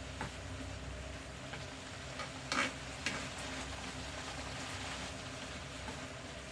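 Maitake mushrooms sizzling in butter in a frying pan, with a few sharp clicks of a utensil stirring against the pan, the loudest a little before halfway.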